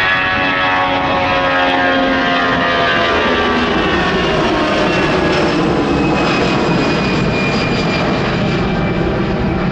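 Jet airliner's engines passing close by, a loud rumble with a stack of whining tones that slide steadily down in pitch as the aircraft goes past.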